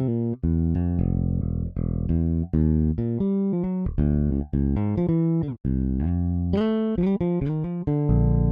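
EZBass sampled electric bass playing a modern funk MIDI groove alone: a busy line of short, clipped notes with rests between them and a downward slide about five seconds in.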